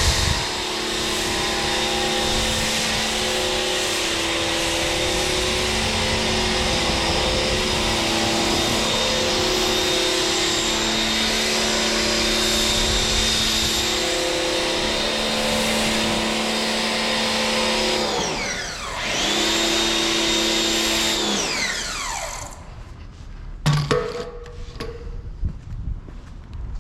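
Electric pressure washer motor running with a steady whine over the hiss of the spray. About three quarters of the way through it winds down and straight back up, then cuts off, followed by a few faint knocks.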